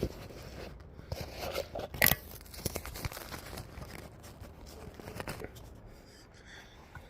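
Brick-and-mortar hand work: irregular scraping and tapping of a trowel and bricks in wet mortar, with one sharp knock about two seconds in.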